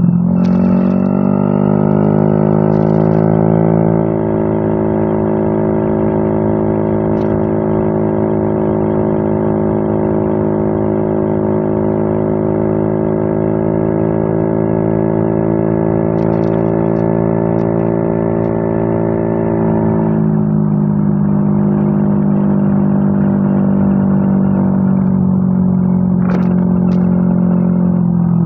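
Yamaha Mio M3 scooter's single-cylinder engine running through a WRX aftermarket exhaust. It is revved up over the first couple of seconds and held at a steady raised speed, then drops back to a steady idle about twenty seconds in.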